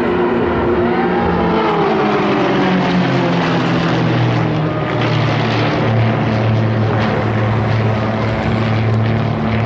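Propeller engines of aerobatic display aircraft droning. The pitch slides down during the first two seconds as they pass, then holds as a steady drone.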